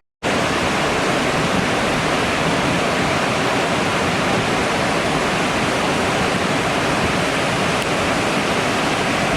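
River in flood rushing steadily, a loud, even wash of water noise that starts abruptly just after a brief gap.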